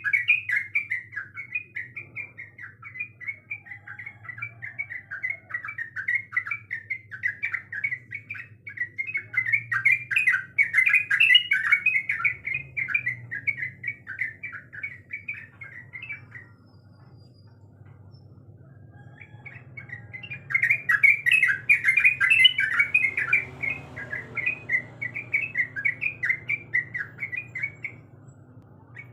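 Yellow-vented bulbul (trucukan) singing a fast, continuous run of chattering notes. It breaks off for about three seconds a little past the middle, then starts again.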